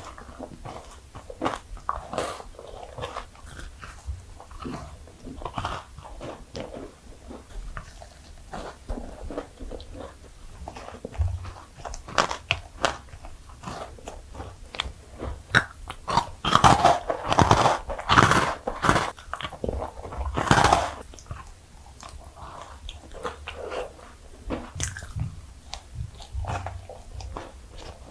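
Close-miked eating sounds: someone biting into and chewing sweets, with irregular wet clicks and smacks. The bites come thicker and louder for a few seconds past the middle.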